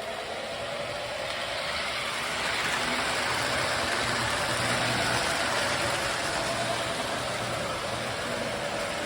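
Lionel O-gauge F-unit toy diesel locomotive running on three-rail track: a steady whirring rumble of its electric motor, gears and wheels that grows louder around the middle as the train passes nearer, then eases off.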